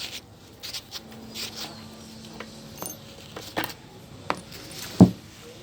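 Scattered light clicks and knocks of hard objects being handled, with one louder thump about five seconds in.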